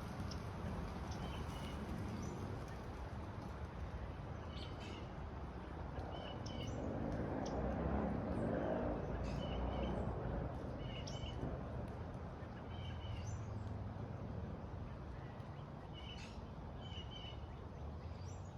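Small bird chirping in short calls every second or two over steady outdoor background noise, with a louder swell of rushing noise about halfway through.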